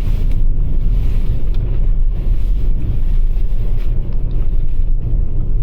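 Loud, steady low rumble heard inside the cabin of a Toyota RAV4 Prime driving on a snow-covered road on Blizzak snow tires.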